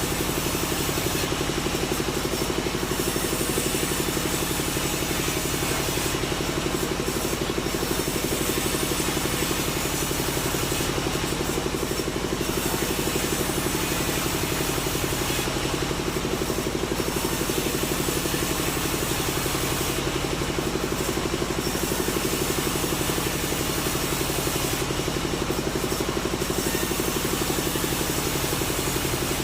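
A sawmill engine running steadily at an even speed, with a faint regular change in its hiss about every four to five seconds.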